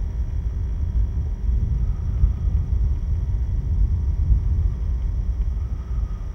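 Wind buffeting the microphone: a steady low rumble that swells and fades unevenly.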